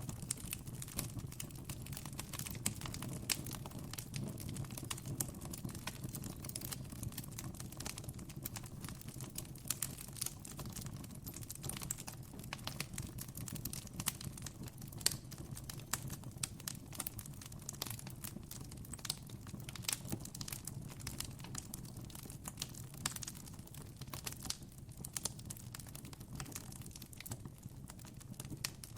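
Campfire crackling: dense, irregular pops and snaps of burning wood over a low, steady rumble.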